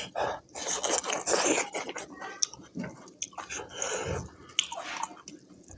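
Close-up chewing and biting of a mouthful of smoked buffalo meat curry, coming in irregular smacking bursts.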